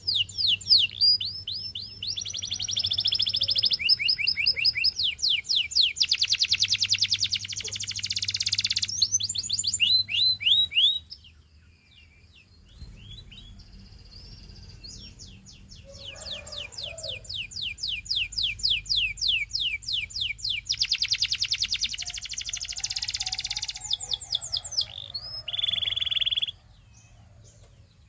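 Canary singing: long runs of fast, rapidly repeated high trills, breaking off for about two seconds near the middle, then building again and ending on a short held whistle-like note. A faint steady low hum runs underneath.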